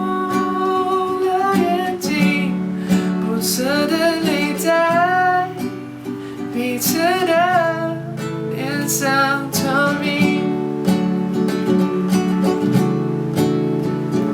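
Acoustic guitar strummed under a wordless sung line with vibrato. The voice drops out about ten seconds in, and the guitar plays on alone.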